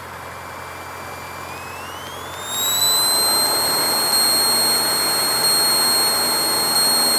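Cessna 152's four-cylinder Lycoming engine being run up to full throttle for takeoff, heard through the cockpit intercom: a steady whine climbs in pitch over about a second and a half, and the engine noise gets louder and then holds at takeoff power.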